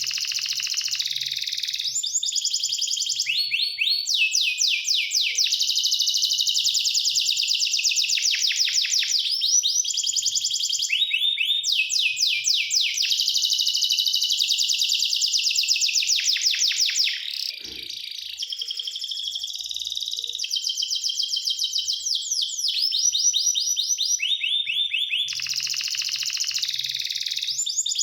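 Domestic canary singing: long, rapid trills of fast repeated high notes, one roll running into the next with brief breaks between phrases. A short low knock comes about two-thirds of the way through.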